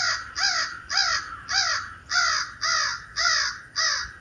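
Recorded crows cawing in an agitated, excited tone, played back from a Bluetooth speaker: a run of eight harsh caws, about two a second, each dropping in pitch, stopping shortly before the end.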